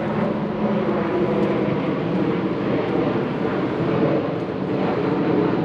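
Fixed-wing airplane passing overhead: a steady, loud engine drone that holds level.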